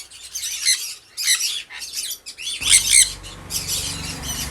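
Many caged small parrots chirping and squawking together, with rapid short calls overlapping. A low steady hum joins in a little past halfway.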